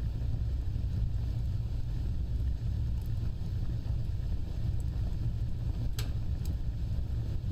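Fire burning with a steady low rumble and a few sharp crackles, the strongest about six seconds in.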